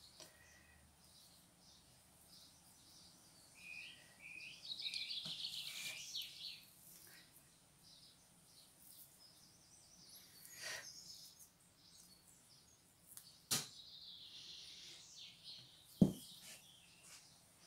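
Faint twittering of small birds in short bouts, with two sharp clicks near the end.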